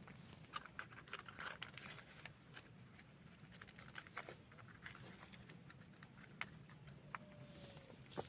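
Faint, scattered clicks and light clinks of small objects being handled, over a low steady background hum.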